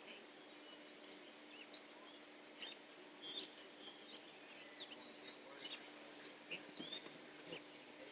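Faint chirps and short calls of small birds, scattered irregularly, over a low steady hum.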